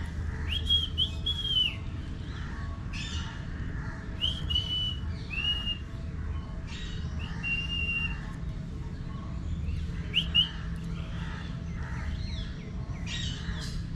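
Birds calling: short, clear whistled chirps every second or two, some rising and falling and one held flat for nearly a second, over a steady low hum.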